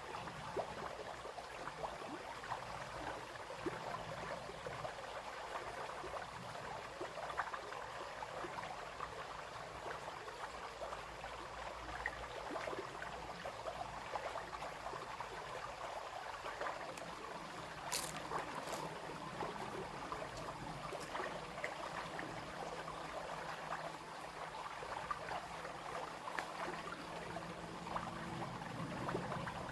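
Small brook babbling and trickling steadily over stones. There are a couple of sharp clicks about two-thirds of the way in, and a faint low hum joins in the second half.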